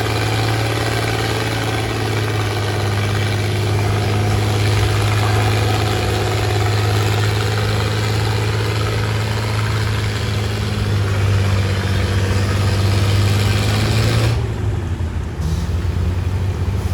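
Antique pulling tractor's engine running loud and steady at a constant low pitch. About fourteen seconds in, the higher-pitched noise drops away for a second or so while the engine note carries on.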